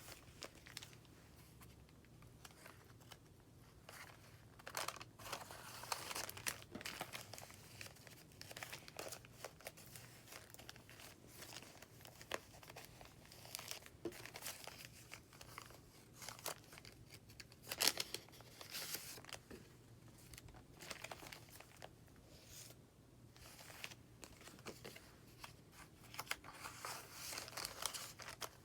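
Paper rustling and crinkling as the pages of a handmade junk journal are turned and handled, with irregular soft crackles and crisp taps of card and paper, the sharpest just before the middle. A faint steady hum sits underneath.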